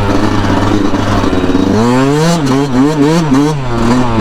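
2019 Yamaha YZ125 single-cylinder two-stroke dirt bike engine running while riding through sand. About halfway through it revs up and down about three times, then settles back to a steady pitch.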